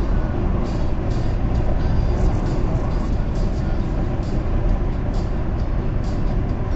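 Steady road and engine noise inside a moving car, heaviest in the low end.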